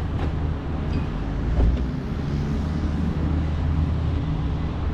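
Steady road and tyre rumble inside a moving car's cabin, a constant low drone with an even hiss above it.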